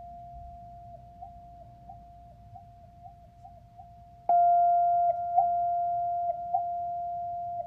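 Singing bowl ringing one steady, pure tone with a slight regular wobble. About four seconds in it is struck: the tone jumps louder, fainter higher overtones join it, and the ring slowly fades.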